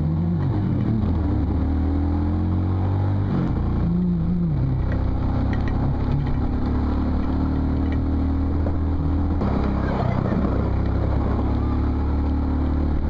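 Motorcycle engine running while riding, its note dipping near the start and again about four seconds in as the speed changes, with a steady rush of wind noise over it.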